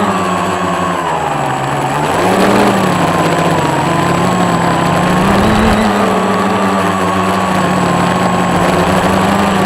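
Scratch-built quadcopter's motors and propellers humming in flight, the pitch dropping about a second in and climbing back about two and a half seconds in as the throttle changes, then holding fairly steady.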